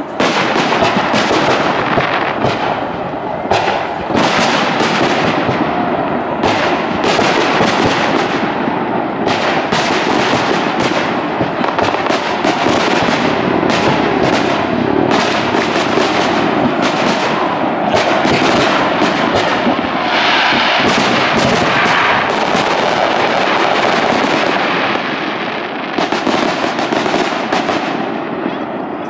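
Fireworks display: a rapid, continuous barrage of aerial shell bursts, several bangs a second, with a dense crackling stretch about twenty seconds in. The barrage thins out in the last few seconds.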